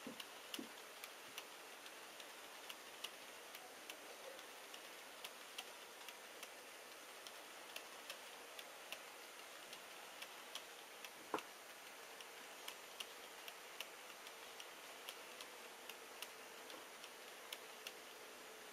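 HO-scale model freight train running on track, its wheels clicking over the rail joints in a steady rhythm of two to three clicks a second, with one louder click about eleven seconds in. A faint steady hum joins in the latter half.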